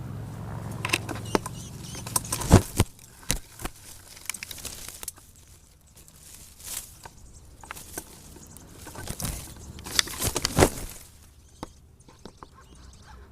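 Irregular knocks, clicks and rustling, loudest about two and a half seconds in and again around ten and a half seconds in.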